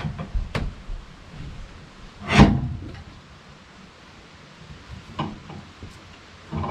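Sawmill log clamp being worked into place against the log: a light click, then one loud metal clank with a short scrape about two and a half seconds in, then a few faint knocks.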